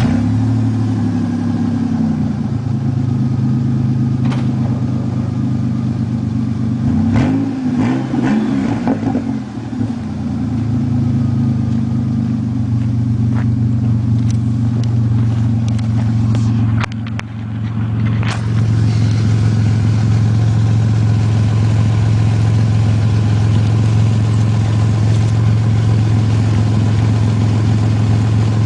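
Duster's engine running loud with its exhaust broken at the catalytic converter, so the exhaust is leaking and unmuffled. Just after it fires, the revs fall back. It is blipped up and down a couple of times about seven to nine seconds in, dips briefly a little past halfway, then idles steadily.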